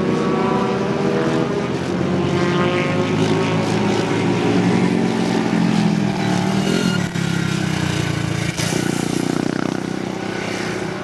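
Several vintage racing motorcycle engines running at high revs, their notes overlapping and sliding up and down in pitch, with two brief drops in level about seven and eight and a half seconds in.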